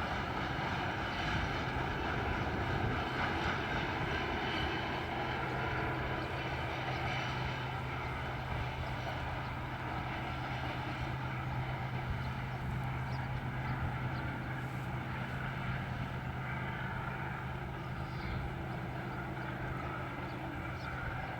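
Diesel locomotives of a freight train working hard up a steep grade: a steady, heavy engine drone that slowly grows fainter.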